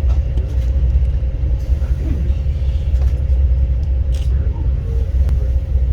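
Passenger train running along the track: a steady low rumble with a faint hum and occasional light clicks.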